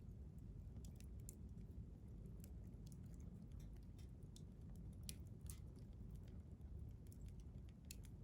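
Wood fire crackling faintly: irregular sharp pops and ticks, the loudest about five seconds in, over a low steady rumble.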